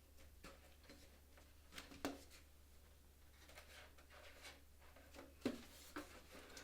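Near silence: room tone with a steady low hum, broken by a few faint short clicks, one about two seconds in and another later on.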